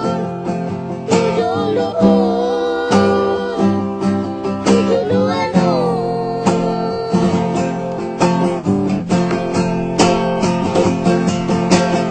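Acoustic guitar music, plucked and strummed, with a pitched melody line that bends between notes over it.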